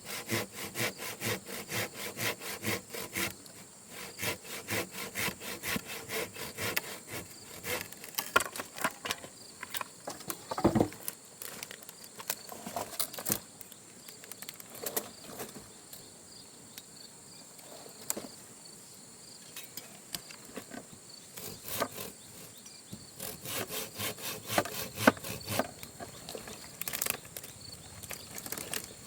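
A saw cutting wood in quick, even strokes for the first few seconds, then scattered knocks and cracks of wood, with another run of sawing strokes near the end. Insects keep up a steady high buzz.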